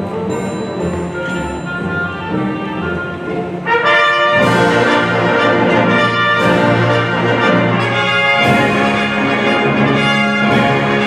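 Symphony orchestra playing, with the brass section prominent. The full orchestra comes in louder a little under four seconds in and holds there.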